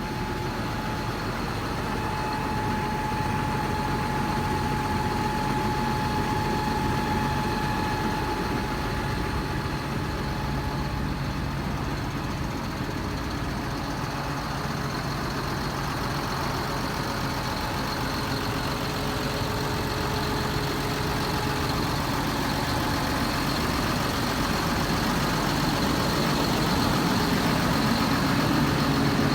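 John Deere 7830 tractor's six-cylinder diesel engine idling steadily.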